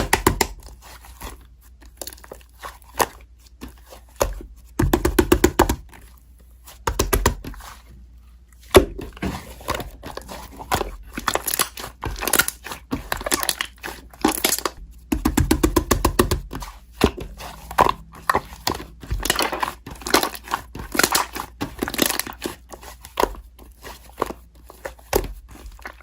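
Slime being squeezed and worked by hand, with dense sticky crackling and popping clicks that come in irregular bursts.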